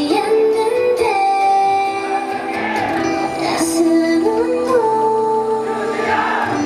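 A K-pop song: female voices sing long, held, smoothly gliding notes over a dense instrumental backing.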